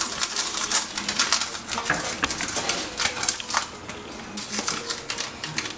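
Metal spoon stirring a dry spice blend in a bowl, with quick irregular clicks and scrapes against the bowl.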